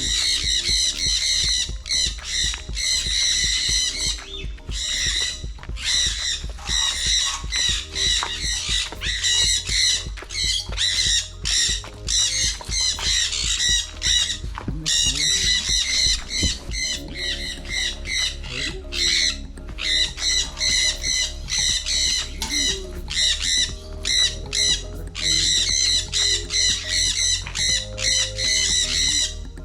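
A large flock of birds squawking and chattering without pause, loud and shrill, over background music with held chords.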